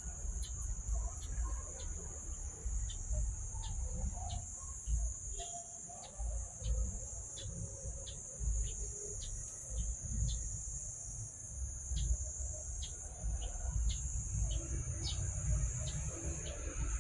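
Outdoor insect chorus: a steady high-pitched drone of crickets or cicadas, with short chirps repeating about twice a second and a fluctuating low rumble underneath.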